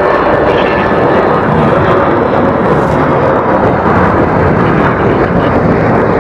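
Boeing 737-900ER's CFM56-7B turbofan engines at takeoff power: a loud, steady jet noise that holds level.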